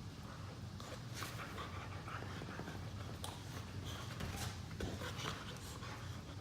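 Boxer dogs panting hard during lazy play-wrestling, with short irregular bursts of breath and scuffling, over a low steady hum.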